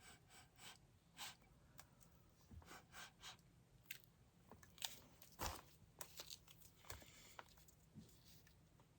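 Faint, irregular small clicks and taps, with the loudest pair about five seconds in.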